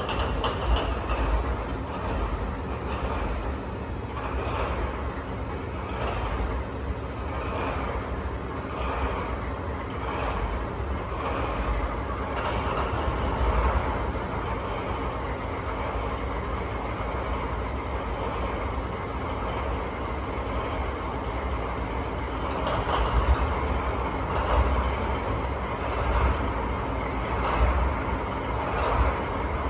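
The DD51 diesel-hydraulic locomotive's first V12 diesel engine idles with a rough, knocking beat just after a cold start. About twelve seconds in, the second V12 engine is started and runs up, and the two then idle together with occasional sharper knocks.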